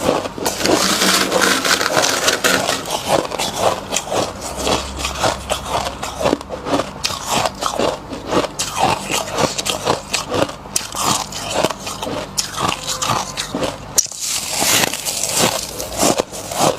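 Close-miked crunching and scraping of thick frost: fingers digging chunks of built-up humidifier frost and teeth biting and chewing them, in a dense run of irregular crunches with a brief pause near the end.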